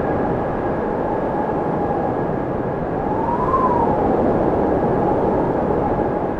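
Wind blowing steadily with a howling whistle whose pitch glides up and back down about halfway through.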